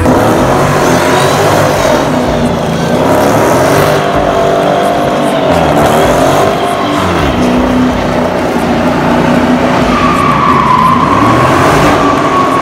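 Car engine revving, its pitch rising and falling several times, with tyres squealing steadily near the end.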